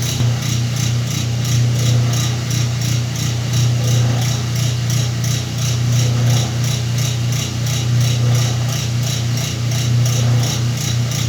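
Whirlpool washing machine running its cycle with a load of blankets: a steady low motor hum with a fast, even pulsing.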